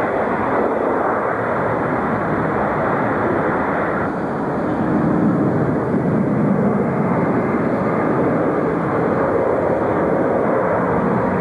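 Jet airliner engines running: a steady, loud rush of noise. About four seconds in it changes, with a faint low hum coming through and the level rising slightly.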